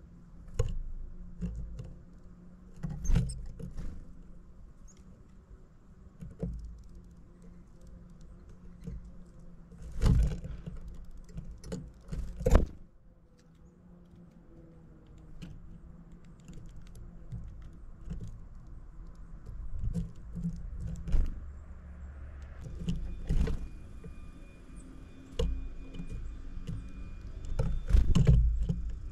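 Small birds landing and pecking close to the microphone: irregular taps, scratches and several loud knocks over a low steady rumble.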